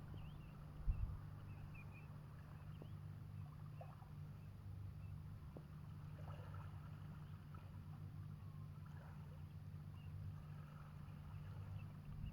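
Faint scattered chirping calls of shorebirds over a steady low hum.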